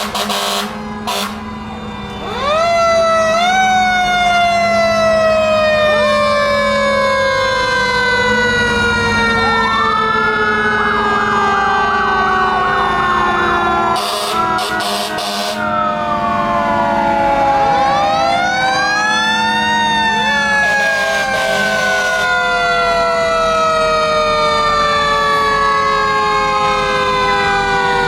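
Several fire truck sirens sounding together. Long wails rise and then slowly wind down, with a fast yelp about 11 seconds in. Short loud blasts come at about 14 and 20 seconds.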